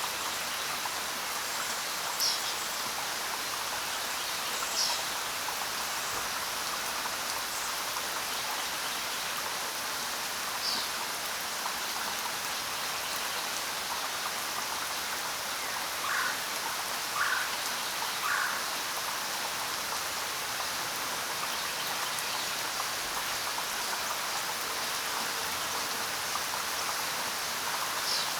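Steady rain falling, an even hiss of drops. A few short, high chirps from a small animal are heard here and there, three of them in a row about halfway through.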